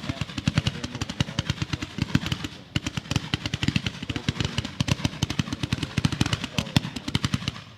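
A 183-shot consumer fireworks cake firing in rapid succession, a fast crackling string of shots at several a second. There is a brief break about three seconds in, and the shots stop abruptly at the end.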